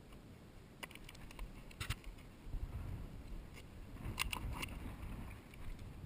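A horse walking on rocky ground: a few sharp hoof clicks, a cluster of them about four seconds in, over a low rumble of wind on the microphone.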